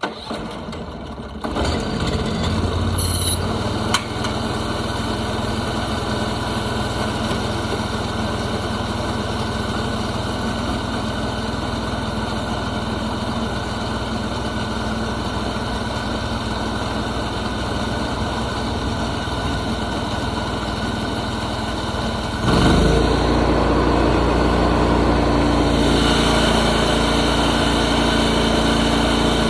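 Portable sawmill's engine starts up and runs steadily. About 22 seconds in it gets suddenly louder and deeper, as if throttled up.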